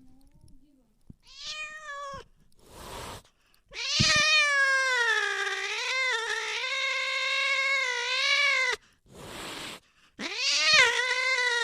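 Domestic cat yowling: a short meow, then two long, drawn-out wavering calls, the first about five seconds long. Brief noisy rushes come between the calls.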